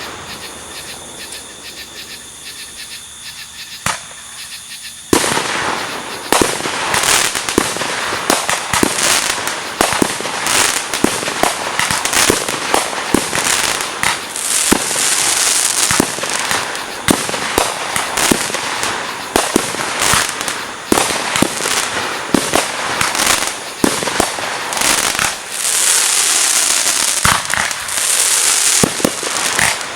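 Fireworks display: after a lull of about five seconds, a dense barrage begins, with rapid sharp bangs of bursting shells and stretches of crackling.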